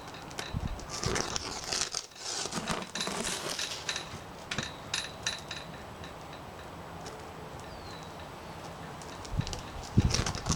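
A blade slicing through the plastic laminate between the two glass layers of a laminated windshield, with scraping, crackling and small clicks. A louder knock comes near the end.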